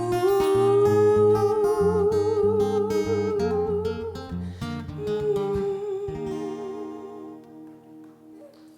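Acoustic guitar strumming under a held, wordless sung melody with a slight waver, the closing bars of a song. The guitar stops about six seconds in and the last held note fades out near the end.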